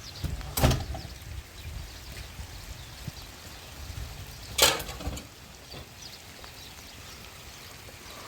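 Steady rain and running water, with two loud splashes about four seconds apart.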